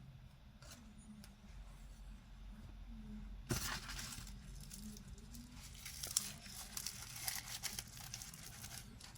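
Packaging being unwrapped: wrapping crinkling and tearing in a dense run of small crackles that starts about a third of the way in and lasts several seconds, with one sharp click partway through.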